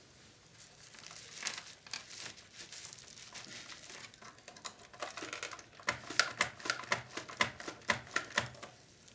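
Hands working at the plastic parts of a vintage Philips radio cassette recorder, trying to free a knob: rustling and light handling at first, then a quick run of sharp plastic clicks and knocks.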